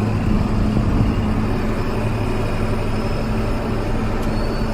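Tractor engine running steadily, a continuous low hum, while pulling a field cultivator through loose dirt.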